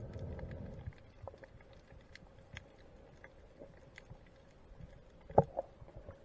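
Underwater ambience: a low, bubbly rumble fades out within the first second, then faint scattered crackling clicks, with one sharp knock about five seconds in.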